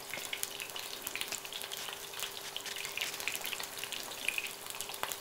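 Eggplant slices frying in olive oil in a pan: a steady sizzle with a dense crackle of small pops.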